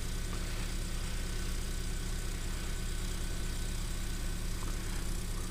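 Generator engine running at a steady speed, a constant low hum.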